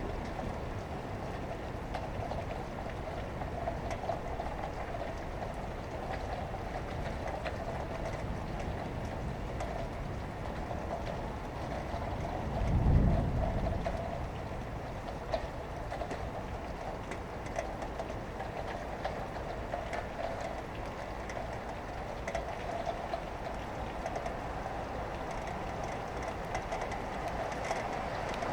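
Steady rain and passing road traffic heard through an open window, with scattered faint drip ticks. About halfway through comes a short low rumble, the loudest moment.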